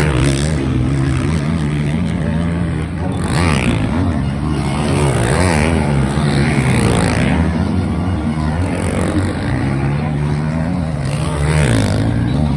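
Several motocross bikes' engines revving and changing pitch as they brake, shift and accelerate through a corner, their overlapping engine notes rising and falling continuously.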